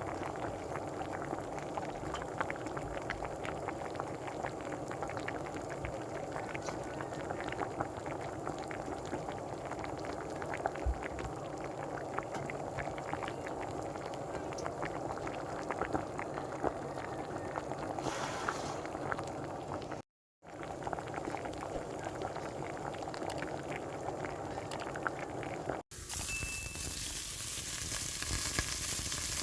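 A pot of pork and chicken braise boiling with a steady bubbling and popping. It breaks off briefly in the middle, and near the end it gives way abruptly to a brighter sizzle of food frying in oil.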